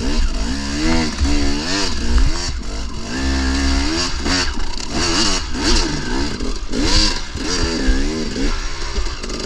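KTM 300 two-stroke dirt bike engine revving up and down over and over, about twice a second, as the throttle is worked while riding, with a steadier pitch for about a second partway through.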